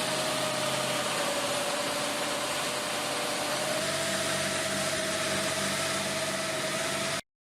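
Heavy vehicle engine running steadily under a lot of hiss, with a steady whine above it; its note shifts slightly about four seconds in. The sound cuts off abruptly near the end.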